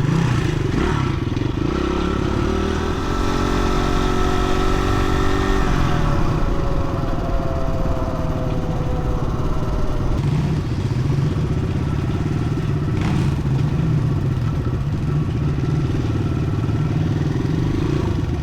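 Dirt bike engine running while riding, with steady road and wind noise. A few seconds in, an engine note holds steady, then falls in pitch over the next few seconds.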